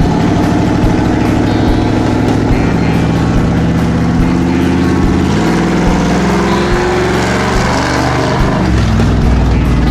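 Monster truck engine running loud under light throttle as the truck drives, its pitch shifting as the revs change about halfway through and again near the end.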